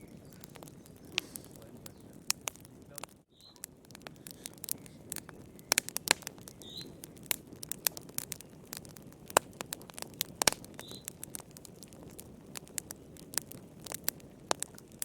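Wood fire crackling in a fireplace, with irregular sharp pops and snaps over a low steady rush, and a few faint short high squeaks. The sound drops out briefly about three seconds in.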